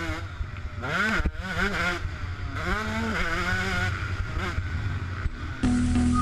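KTM 125 SX two-stroke single-cylinder dirt bike engine revving up and down repeatedly as it is ridden around the motocross track. Music with steady tones comes in near the end.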